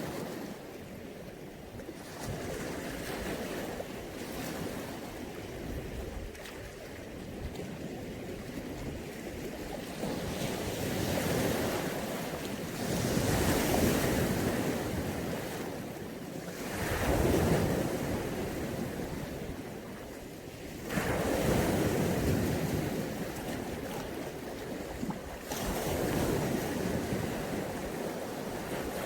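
Mediterranean sea waves washing onto the shore, the surf swelling and subsiding in repeated surges every few seconds, with some wind on the microphone.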